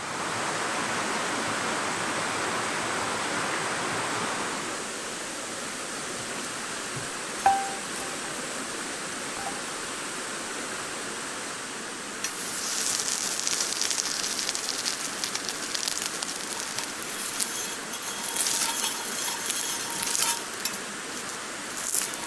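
Campfire cooking: a steady hiss, then dense high crackling and sizzling from about halfway through, as steak fat spits over the fire. A single metallic clink about a third of the way in.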